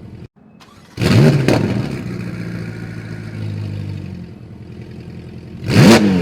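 Ferrari 488 Pista's twin-turbo V8 through a RYFT race exhaust, blipped sharply twice with the pitch snapping up and falling back: once about a second in, after a brief silence, and again near the end. Between the blips it settles to a steadier, lower running note.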